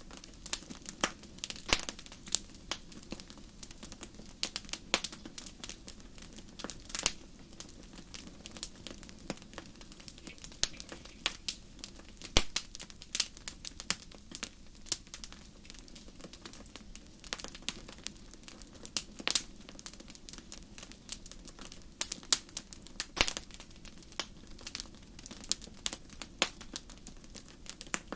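Wood fire in a fireplace crackling: irregular sharp pops and snaps, a few louder ones, over a low steady hiss of burning.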